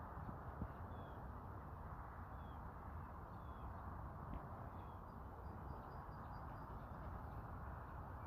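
Small birds chirping faintly, with a quick run of high notes about halfway through, over a steady low rushing background noise.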